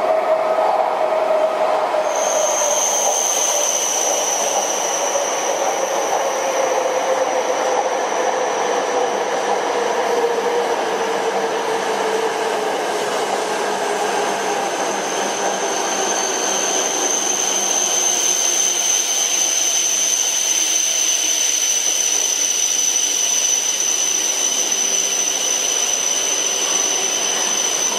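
E5 series Shinkansen bullet train running through a station: a steady rush of train noise with a lower hum that slowly drops in pitch over the first half. A steady high whine joins about two seconds in.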